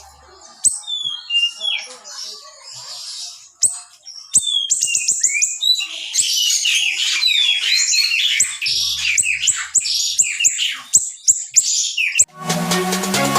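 Small siri-siri songbird singing rapid, sharp chirps that sweep down in pitch, scattered at first and then packed close together from about four seconds in. Electronic music starts near the end.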